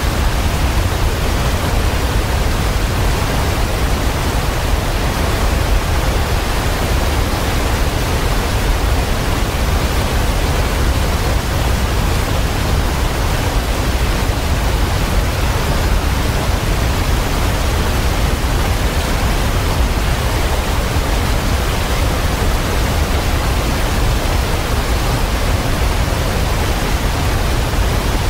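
Waterfall pouring steadily: an even, unbroken rush of falling water, heaviest in the deep low end, with no birdsong or other sounds standing out.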